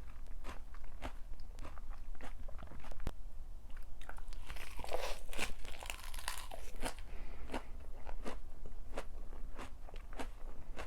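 A person chewing crunchy food close to the microphone, about two chews a second. About four seconds in comes a louder, denser stretch of crunching that lasts roughly three seconds before the steady chewing resumes.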